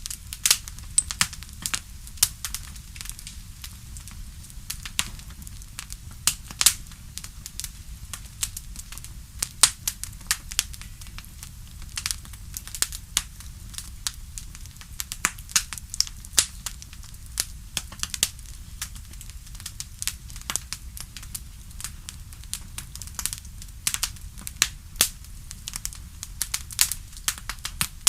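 Bonfire crackling: irregular sharp pops and snaps of burning wood, some much louder than others, over a steady low rumble.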